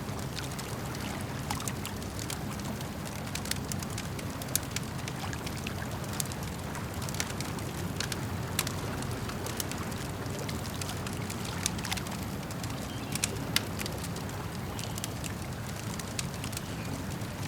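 Campfire crackling, with sharp pops and snaps scattered irregularly and a few louder ones, over a steady low rush of lake water lapping.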